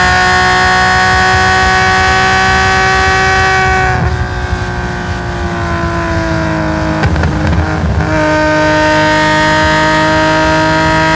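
Nissan S20 straight-six in a race-tuned Hakosuka Skyline GT-R, heard onboard, running hard at high revs through its stainless exhaust. About four seconds in, the throttle is lifted and the note drops, falling in pitch for a few seconds. After a rough, uneven second it goes back to full power at high, steady revs.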